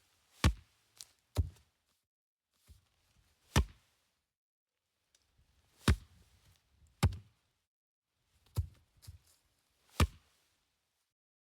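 A series of about ten sharp knocks or taps at uneven spacing, some with a dull thud beneath, and near silence between them.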